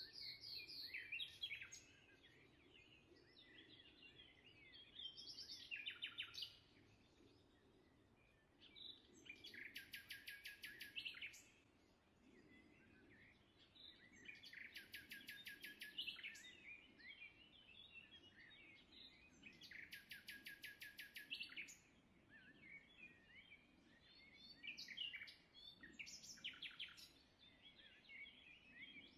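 Faint birdsong: scattered chirps, and a rapid trilled phrase about two seconds long sung three times, about five seconds apart.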